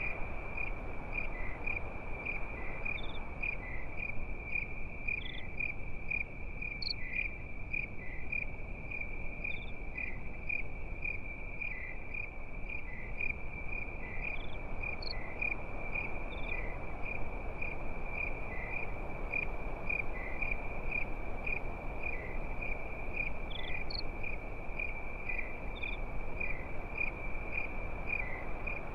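Crickets chirping in a steady, evenly repeating high trill at about two or three chirps a second, with a few other insect chirps scattered above it. Beneath them runs a continuous low crackling hiss of a campfire burning.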